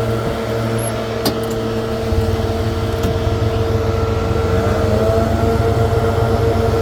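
Leaf blower running at steady high power, getting a little louder about two seconds in, with its pitch rising slightly past the middle.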